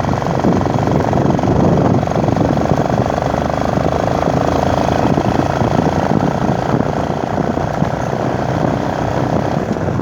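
Motorcycle running at riding speed, its engine under wind rushing over the microphone.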